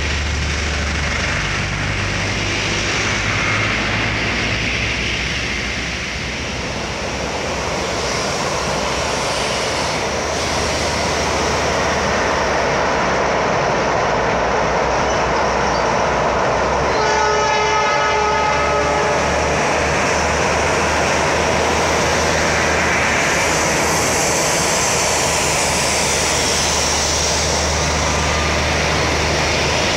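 Train rumbling steadily across a steel truss bridge, its horn blowing once for about two seconds past the middle, with heavy trucks' diesel engines running on the road close by.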